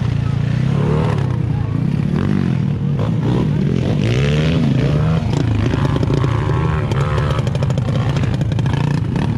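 Dirt bike engine running, its pitch repeatedly rising and falling as the throttle opens and closes.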